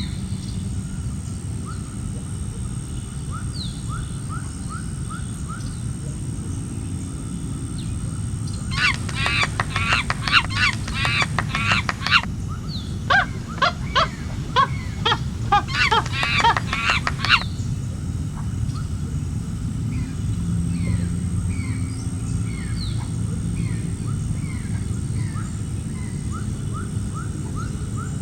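Birds calling: a flock's loud, rapid run of repeated calls for about eight seconds in the middle, with faint short chirps before and after, over steady low background noise.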